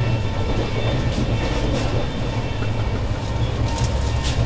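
Express passenger train running at speed, heard from on board: a steady low rumble with wheels clicking over rail joints and points at uneven intervals.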